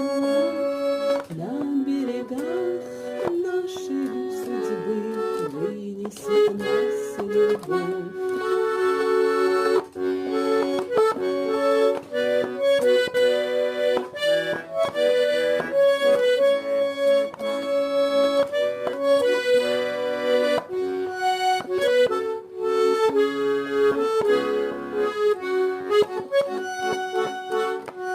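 Garmon (Russian button accordion) playing the song's melody over sustained chords in an instrumental passage, with no singing.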